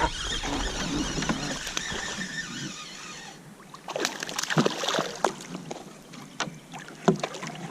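Sounds of a kayak on the water: a steady wash of water noise for the first three seconds, then quieter, with irregular sharp knocks and clicks against the hull.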